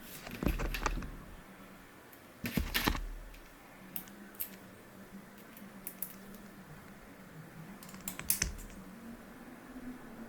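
Hard plastic clicks and taps in short clusters, with single clicks between them, like keys or printed parts being pressed and handled.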